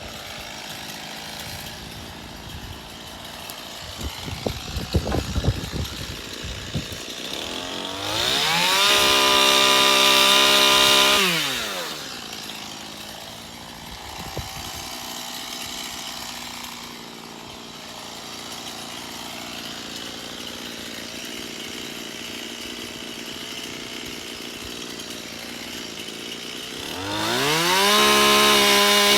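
Two-stroke gas chainsaw idling, then revved to full throttle twice. The first rev comes about eight seconds in and lasts about four seconds; the second comes near the end. Each time the pitch rises sharply, holds, and falls back to idle. A few sharp knocks come around five seconds in.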